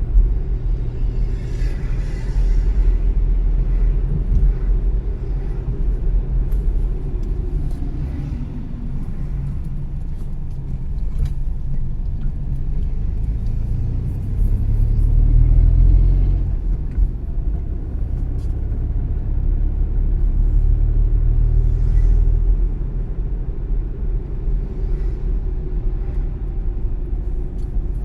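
A car driving: a steady low rumble of engine and tyre road noise, swelling louder about halfway through and again a little later.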